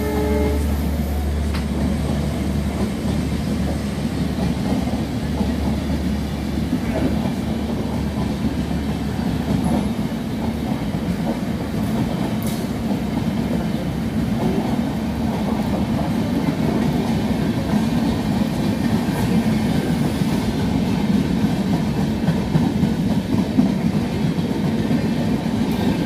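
Indian Railways passenger coaches rolling past at speed, wheels and bogies making a steady rumble with light clicking over the rail joints. A train horn cuts off right at the start, and a low hum underneath stops about ten seconds in.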